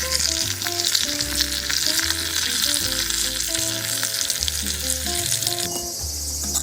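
Pork sizzling on a camping barbecue grill, its fat spitting, over background music with held notes and a regular bass. Near the end the sizzle cuts off and crickets chirp.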